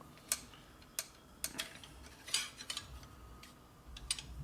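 Irregular light metallic clicks and clinks, several of them and a little cluster near the middle, as a stainless steel line is handled and bent into place against the engine.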